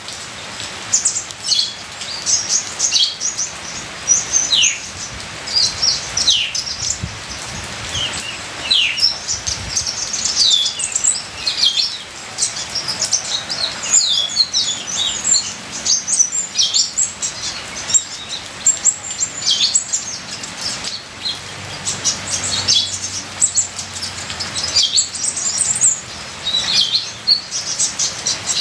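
Kolibri ninja sunbird song: a continuous run of quick, high, thin chirps and short down-slurred notes. Under it is a steady hiss of trickling water.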